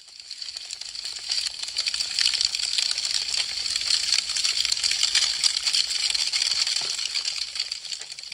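Wood fire crackling: a dense run of sharp pops and snaps from burning branches, fading in over the first couple of seconds, loudest in the middle, and fading out near the end.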